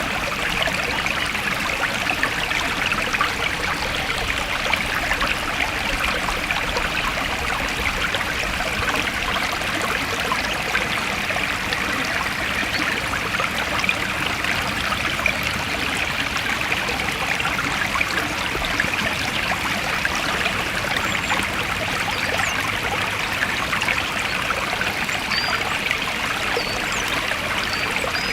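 Forest stream flowing steadily: a continuous, unbroken rush of running water.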